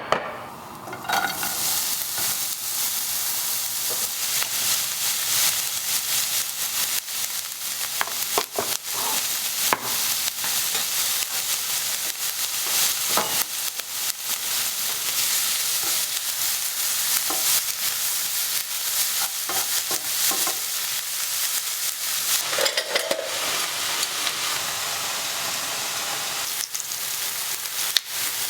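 Food sizzling and frying in a pan, a steady crackling hiss with scattered small pops and clicks, starting about a second in.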